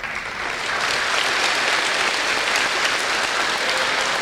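An audience applauding, building over the first second and then holding steady.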